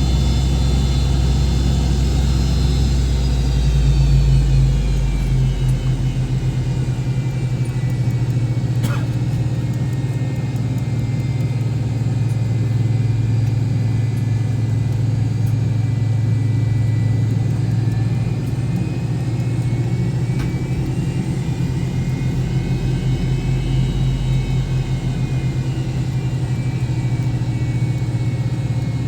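MD-88's rear-mounted Pratt & Whitney JT8D turbofan engines heard inside the cabin while taxiing: a steady low hum under a turbine whine that falls in pitch a few seconds in and climbs again past the middle as the thrust changes.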